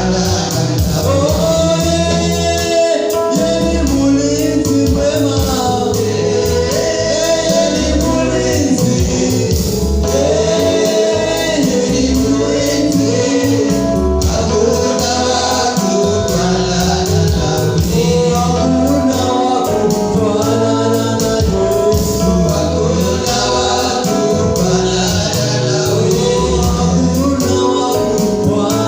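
Gospel worship song: a choir singing over a band with a steady bass line and beat.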